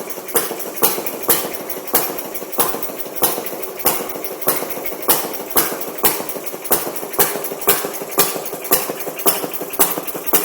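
Elgin Comet air-cooled two-stroke marine engine running slowly. Each firing stroke gives a sharp crack, about two a second, over a steady metallic rattle.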